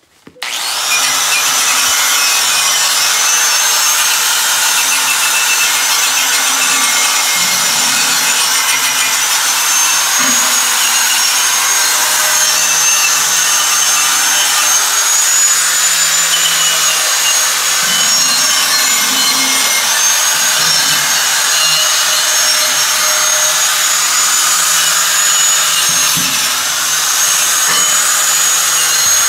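Power tool sanding rust off the steel of a New Holland hay baler, running steadily with a thin, wavering high whine over the grinding noise. It starts about half a second in.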